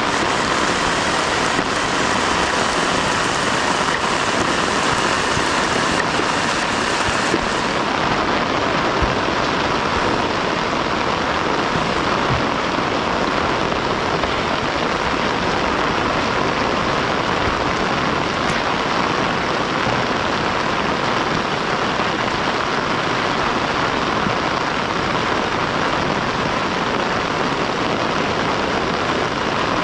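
Heavy rain falling steadily, a dense, unbroken hiss.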